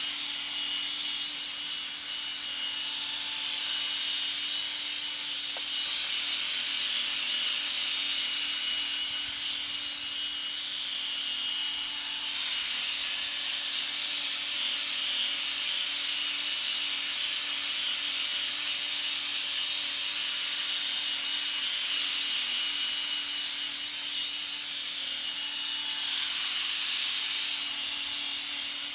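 Drill spinning a foam buffing pad loaded with polishing compound against a plastic headlight lens, the polishing stage of a headlight restoration. A steady motor whine runs under the hiss of the pad rubbing, easing off briefly a few times.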